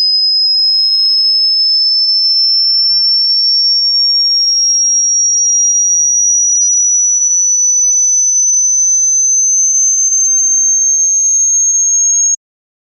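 Electronically generated high-pitched sine tone, loud and steady, gliding slowly upward in pitch, then cutting off suddenly near the end.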